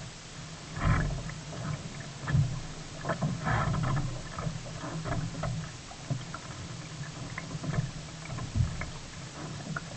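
Sea kayak under way: water splashing irregularly against the paddle and hull, with a few dull knocks, the loudest about a second in, near two and a half seconds and near eight and a half seconds.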